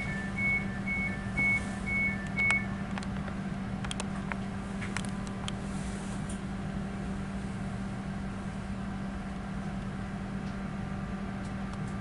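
Train door warning beeps: an alternating two-tone bleep about once a second, stopping about two and a half seconds in. A few clicks and knocks follow, over the train's steady low hum as it stands at the platform.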